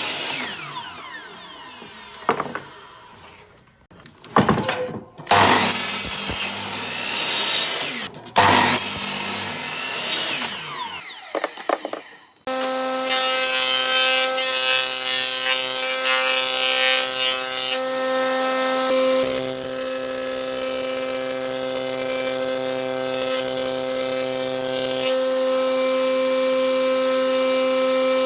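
Wood being worked by a tool in irregular scraping strokes with short pauses. About twelve seconds in, a power tool's motor starts and runs steadily at a constant pitch.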